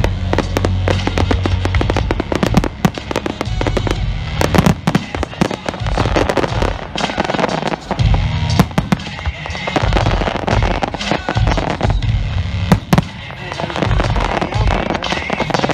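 Fireworks display: a dense, continuous run of sharp bangs and crackles, with music playing underneath.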